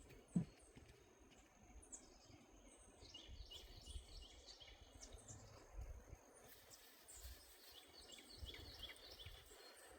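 Faint outdoor ambience: small birds chirping in many quick short notes over a low rumble, with a brief low thump about half a second in.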